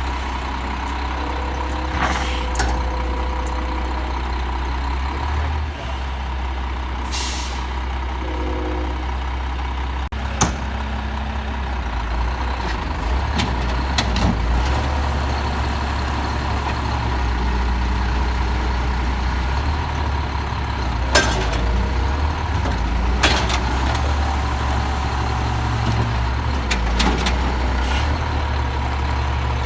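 Peterbilt 320 garbage truck's diesel engine running steadily, with a steady high whine throughout and a few short hisses and clanks, including a brief air hiss about seven seconds in.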